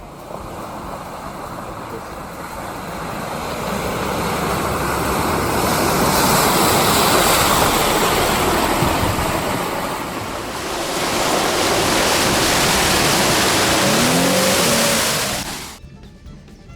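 Off-road vehicle ploughing through water, a loud rushing splash of spray that swells twice and then cuts off suddenly near the end.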